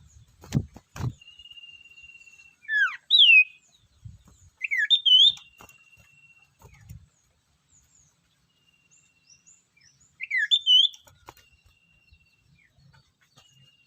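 Sirtu songbird calling: short groups of sharp whistled notes that slide downward in pitch, about three seconds, five seconds and ten and a half seconds in, with thin steady high whistles held between them. Two sharp knocks sound about half a second and one second in.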